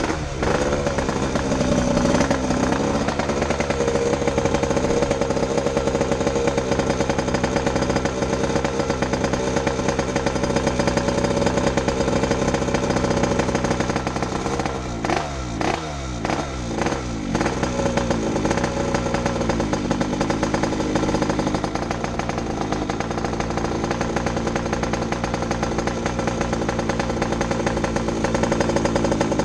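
Yamaha RD135's two-stroke single-cylinder engine running under way. The engine note falls several times in quick succession about halfway through, then holds steady again.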